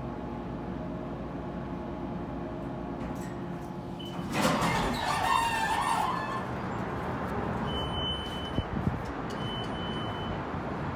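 Steady hum of a roped-hydraulic elevator's replacement ThyssenKrupp pump motor running during the ride. About four seconds in, the hum gives way to a sudden louder rush of noise, followed by busy background noise and a few short high beeps.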